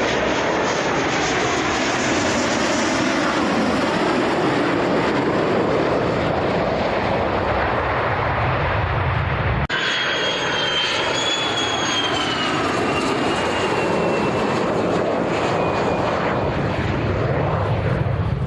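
Military aircraft engines running loud and steady. About ten seconds in, the sound cuts, and a high engine whine then slowly falls in pitch as the aircraft passes.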